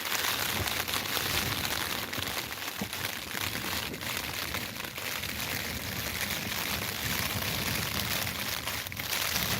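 Strong gusty wind rumbling on the microphone, with rain on tent fabric; a stronger gust comes in near the end.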